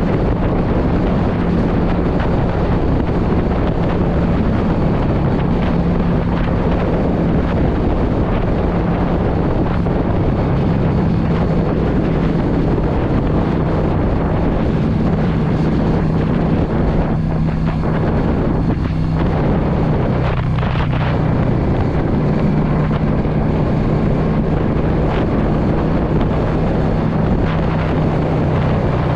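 Yamaha V Star 650's air-cooled V-twin engine running under way at a steady cruise, with heavy wind rushing over the microphone. The engine note steps down slightly about two-thirds of the way through.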